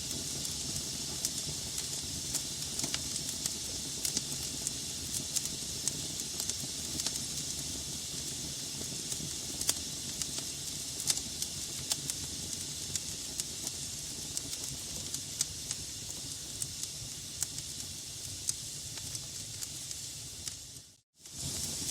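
Log fire in a fireplace crackling: a steady hiss with frequent sharp pops and snaps. Near the end it fades out to silence for a moment, then comes back.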